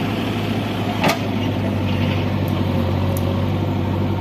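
Heavy diesel machinery engine running steadily at an even pitch, with a single sharp knock about a second in.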